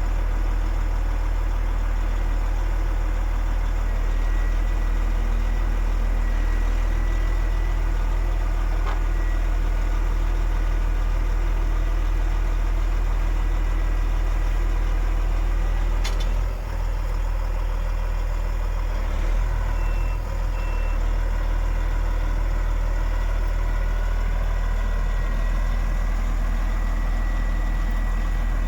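DAF XF 105.460 truck's 12.9-litre six-cylinder diesel idling steadily, with a single sharp click about sixteen seconds in.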